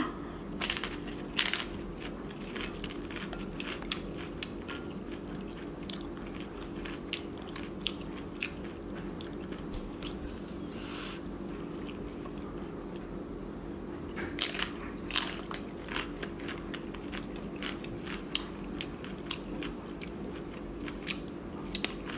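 A person biting and chewing a crisp corn tostada topped with crab and shrimp ceviche: sharp crunches scattered throughout, loudest about a second and a half in and again around fourteen seconds, over a steady low hum.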